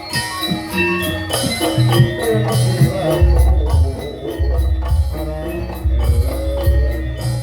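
Live jaranan gamelan music playing without vocals: melodic metal tones over jingling percussion, with deep low notes coming in about three seconds in.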